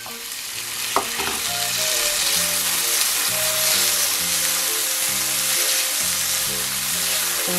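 Chopped kimchi and green onions sizzling in hot oil in a non-stick frying pan as they are stirred with a silicone spatula. Background music with a stepping melody plays under the sizzle.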